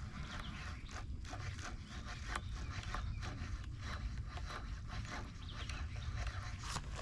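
Many small scrapes and clicks of close handling, over a steady low rumble, with a louder scrape just before the end.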